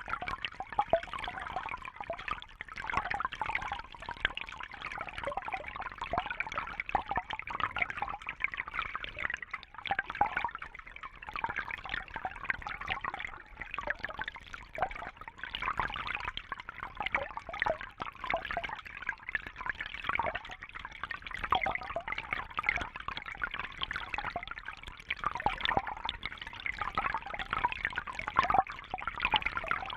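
Water trickling and bubbling steadily, a continuous dense patter of small splashes and pops.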